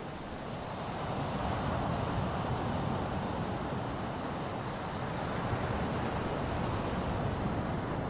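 Ocean surf: a steady rush of breaking waves that swells a little over the first couple of seconds.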